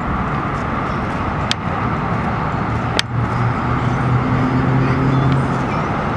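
Outdoor traffic noise with a steady rush. A vehicle engine's low hum comes in about halfway and holds nearly to the end, and two sharp clicks sound about a second and a half apart.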